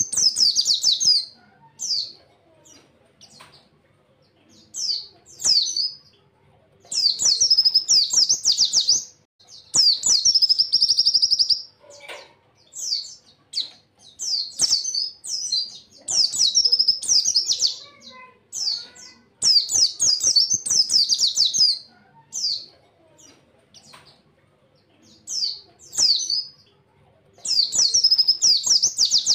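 White-eye (pleci) singing in bursts of rapid, high chattering song, each phrase about one to two seconds long, repeated with short pauses between.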